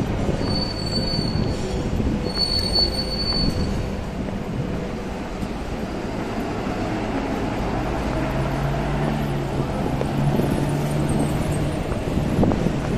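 Train running on the rail line, with two short high-pitched wheel squeals in the first four seconds over a steady rumble, then a low steady hum in the second half.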